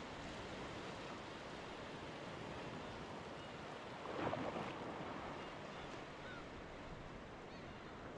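Sea waves washing in steadily, with one wave breaking louder about four seconds in. A few faint short bird chirps come through in the second half.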